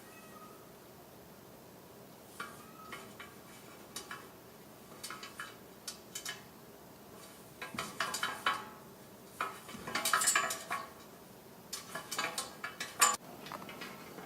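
Small hard objects on a coffee table clinking and rattling in irregular bursts as cats knock at them. The clatter is densest about ten seconds in, and there is one sharp, loud clink near the end.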